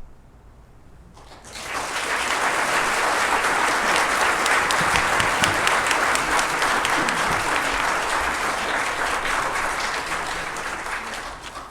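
Audience applauding in a church after a choir and orchestra piece: the applause starts about a second and a half in, builds quickly, holds, and dies away near the end.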